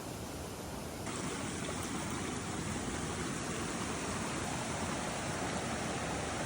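Waterfall on a mountain creek: a steady rush of falling water, a little louder from about a second in.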